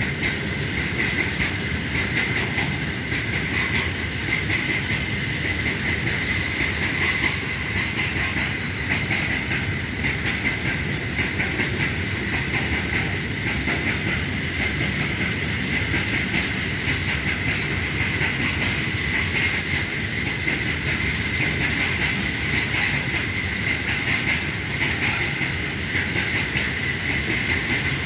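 Freight train wagons rolling past, wheels clattering over the rails in a steady, continuous rumble with a high-pitched whine held over it.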